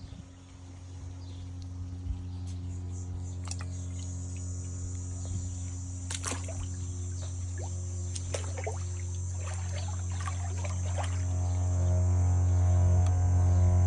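Steady low electric hum that grows louder over the last few seconds, with water pouring and splashing in short bursts through the middle and a steady high hiss.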